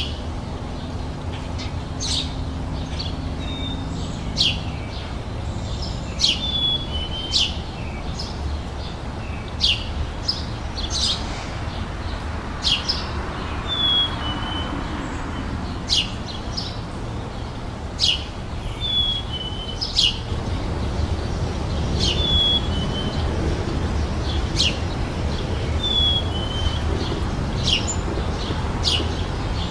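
Songbirds chirping outdoors: short, sharp, high chirps every second or two, mixed with a repeated short whistled note that dips slightly in pitch. A steady low rumble runs underneath.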